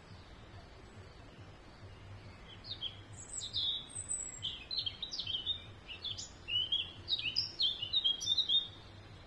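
A songbird singing a long, fast run of varied high chirps and short whistled glides. It starts about two and a half seconds in and stops shortly before the end, over a faint low steady background hum.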